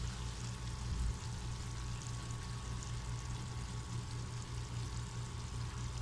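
Faint steady low hum with a light even hiss, like a pan simmering softly or kitchen background noise, with no clear single event.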